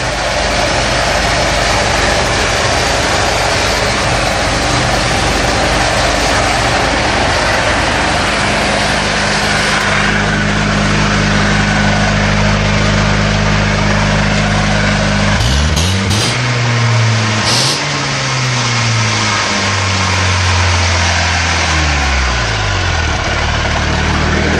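A Moskva-2 motorboat's ZMZ-406 four-cylinder petrol engine, fitted with a new muffler, running steadily. About 15 seconds in it is revved up twice in quick succession, then drops back to idle near the end.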